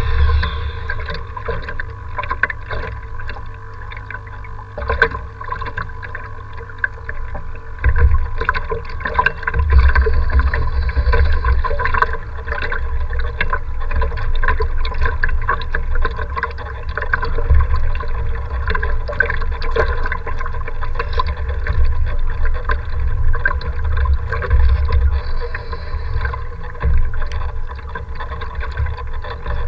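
Strong wind buffeting the microphone in gusts, with water splashing, crackling and a steady hum underneath.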